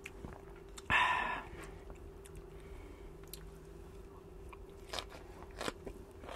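A person biting and chewing food with a few crunchy bites, eating fresh salmon larb with cucumber by hand. About a second in, there is a brief, louder, scraping rush.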